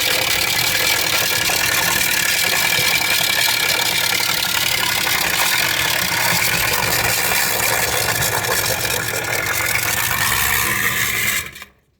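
Electric drain-cleaning machine running steadily, its spinning cable working through a grease clog in a kitchen drain. The motor stops abruptly near the end.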